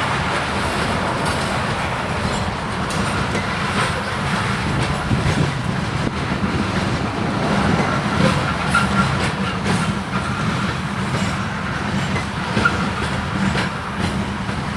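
Grain train's covered hopper cars rolling past: a steady rumble of steel wheels on rail with irregular clicks over the rail joints.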